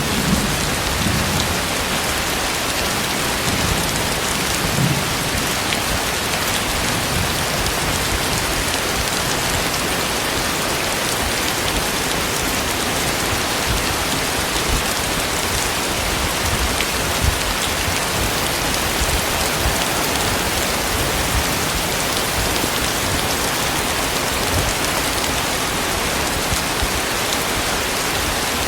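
Heavy rain falling steadily, with a low rumble of thunder dying away in the first seconds.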